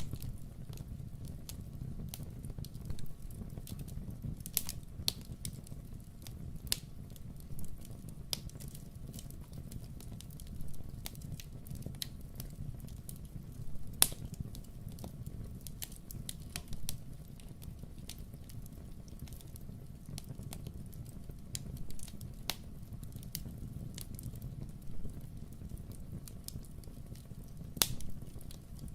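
Wood fire crackling in a fireplace: irregular sharp pops and snaps over a steady low rumble, with the loudest pop about halfway through.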